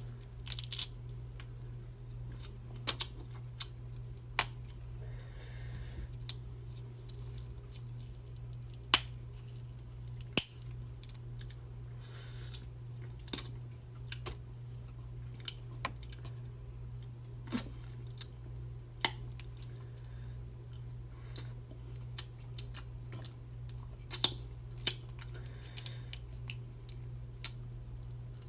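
Close-miked eating of a seafood boil: sharp cracks and snaps of seafood shells being broken open, about one every second or two, with wet chewing in between, over a steady low hum.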